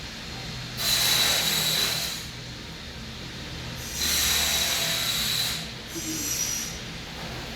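Slow, deep pranayama breaths through the nose, three long hissing breaths a couple of seconds apart, the last one shorter, over a low background hum.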